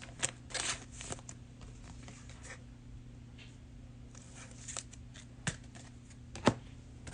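Trading cards being handled and slid against one another: scattered soft swishes and light ticks, busiest in the first second and again a few seconds in. A steady low hum lies underneath.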